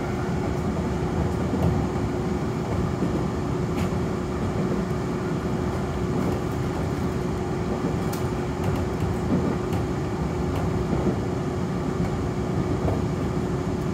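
Nankai Koya Line electric commuter train running between stations, heard from inside the car: a steady rumble of wheels on rail with a constant hum, and a few faint clicks.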